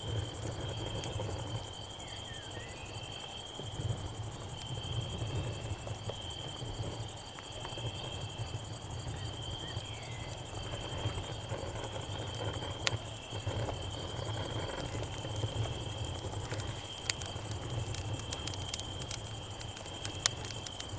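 Night insects (cicadas and crickets) with a steady high-pitched drone and a continuous trill, under scattered sharp campfire crackles and pops that come more often near the end. A low rumble runs underneath.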